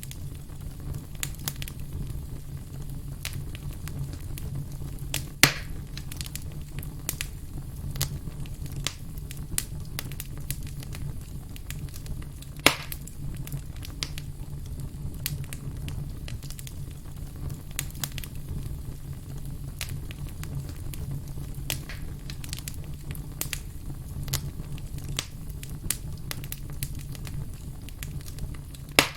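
Campfire crackling: a steady low rumble from the flames under frequent sharp pops and snaps. The loudest pops come about five seconds in, just before halfway, and right at the end.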